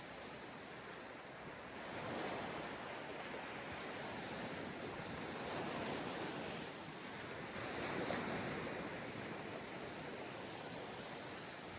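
Ocean waves breaking and washing onto a sandy beach, the surf swelling about two seconds in and again around six and eight seconds, with light wind on the microphone.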